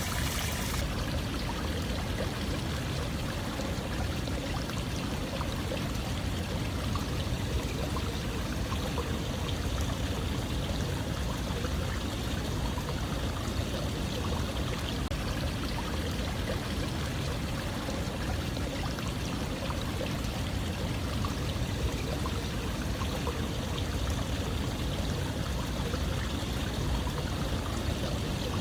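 Steadily running water, a continuous even rush with most of its weight in the low end and no breaks or separate splashes. A brighter, hissier layer on top cuts off under a second in.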